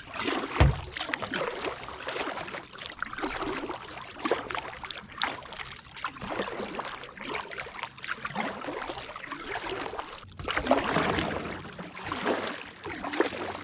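Kayak paddle strokes splashing and dripping water in a series of swells, with a single low knock about half a second in and a louder splash near the end.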